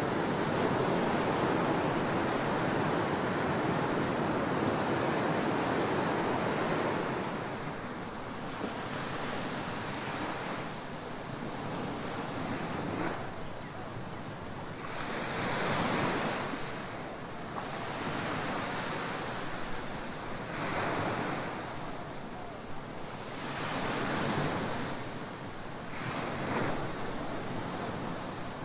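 Ocean surf breaking on a tropical beach. A continuous heavy wash fills the first several seconds, then gives way to separate waves surging in and receding every two to five seconds.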